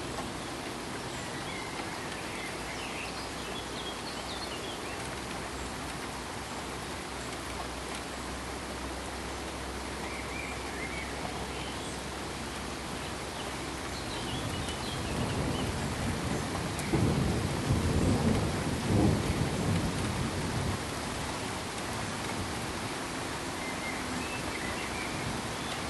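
Steady even hiss like pink noise or rain, with a rumble of thunder swelling from about halfway in and dying away after several seconds. Faint high chirps sit above it now and then.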